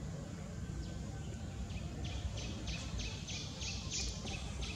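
A bird calling: a run of about ten short, raspy chirps at about three a second, growing louder, starting about a second and a half in. Under it a steady low rumble of outdoor noise.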